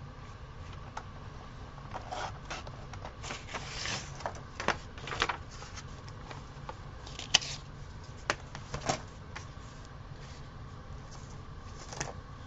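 Paper being handled and rustled, with several sharp clicks and short scrapes bunched together, then one more near the end, over a steady low hum.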